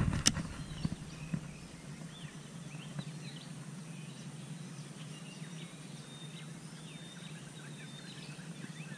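Quiet swamp ambience: faint, scattered bird chirps over a low steady hum, with one sharp click just after the start.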